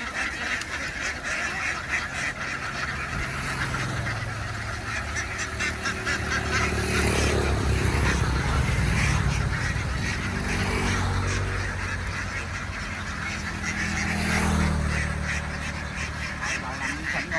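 A large flock of ducks quacking and chattering continuously. Under the calls, a low droning hum swells up through the middle and again near the end.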